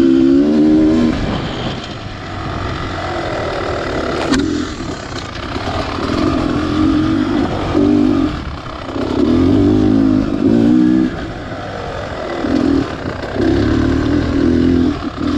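Beta Xtrainer 300 two-stroke single-cylinder dirt bike engine revving in repeated bursts as the throttle is opened and rolled off, with a sharp click about four seconds in.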